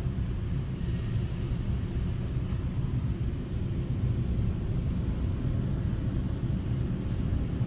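Steady low rumble of a Taiwan Railway EMU900 electric multiple unit, with a few faint ticks.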